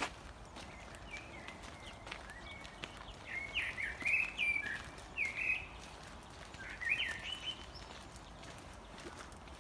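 A songbird singing a series of short, quick chirping and sliding notes, in bursts from about a second in until past the middle, loudest around four and seven seconds in. Faint footsteps on a gravel path sound underneath.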